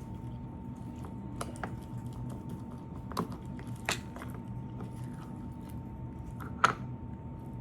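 Scattered light clicks and taps from small plastic slime-kit containers and slime being handled, with a few sharper ones about three, four and nearly seven seconds in. A faint steady hum runs underneath.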